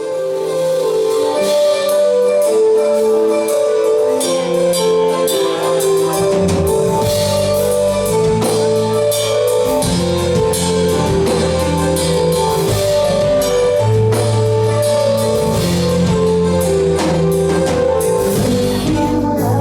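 Live band playing an instrumental intro: a repeating melodic figure, joined by bass and a drum kit about six seconds in.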